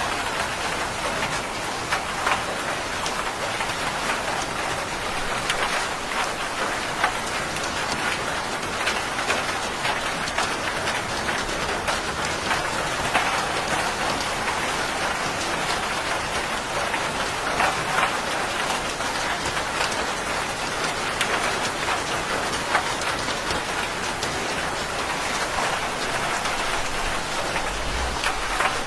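Steady rain falling on a surface, a dense hiss flecked with individual drop ticks, with a faint low rumble of thunder near the end.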